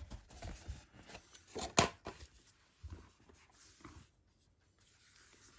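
Cardboard box set handled in the hands: soft rustles and light taps of the packaging, with one sharp click about two seconds in.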